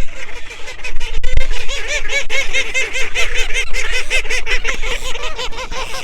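A flock of call ducks quacking loudly and continuously, many rapid calls overlapping, with a low thump about a second in.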